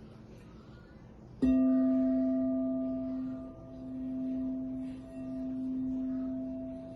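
Tibetan singing bowl struck once about a second and a half in, then ringing on as a long, pure tone in the note C, its loudness wavering in slow swells.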